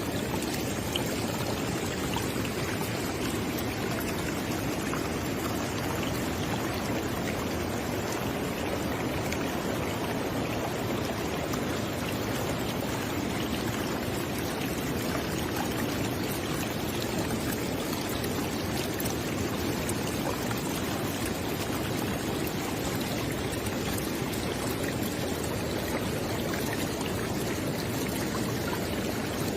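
River or stream water flowing steadily: an even rushing with small splashes and burbles on top, unchanging throughout.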